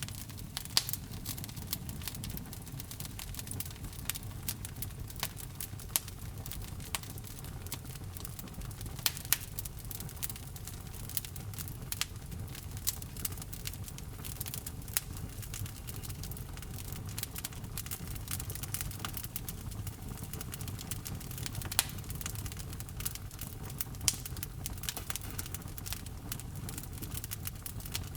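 Wood fire in a fireplace crackling: a steady low rumble of the flames with frequent sharp snaps and a few louder pops.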